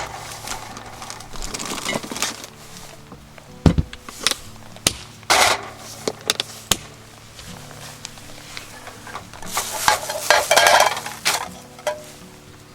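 Scattered knocks and clatters of handled camp cooking gear, with a few brief rustling bursts and one heavier thump a few seconds in, over soft background music.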